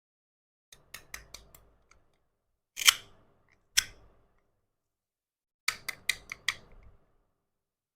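Small hard toy kitchen pieces being handled and set down: a quick run of light clicks, then two louder snaps, then another quick run of about five clicks. The louder of the two snaps, about three seconds in, is the loudest sound.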